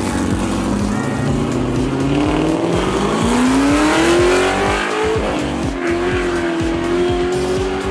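Car engine accelerating hard, its pitch climbing, dropping abruptly about five seconds in at a gear change, then climbing again.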